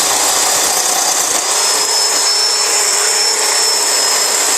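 Black & Decker 20-volt cordless electric chainsaw running at full trigger and undercutting a small branch: a steady electric-motor whine over chain noise, the whine stepping slightly higher about a second and a half in.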